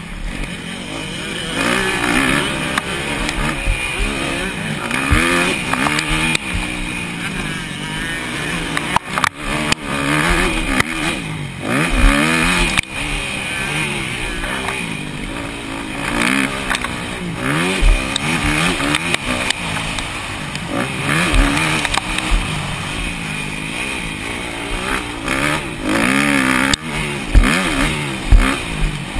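250cc four-stroke single-cylinder motocross bikes racing, engines revving up and falling back again and again through the gears, over a steady rush of wind and a few short low thumps.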